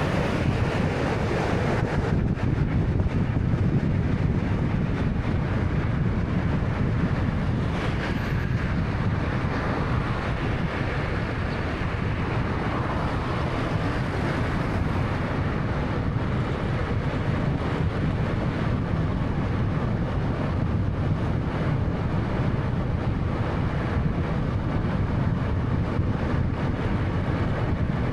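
Road noise inside a moving 2013 Honda Fit 1.3-litre: a steady low rumble of tyres and engine with wind noise.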